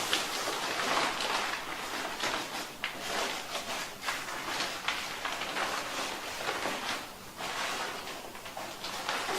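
Rustling and a stream of light clicks and clacks of plastic being handled: irregular, with no steady tone.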